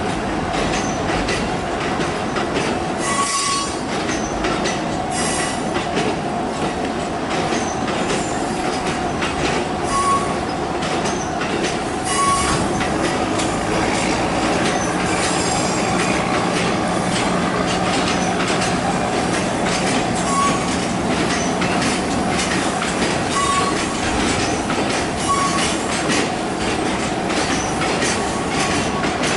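A freight train of Hoki 2000 hopper wagons rolling past at low speed, wheels knocking over rail joints, with brief high wheel squeals about six times.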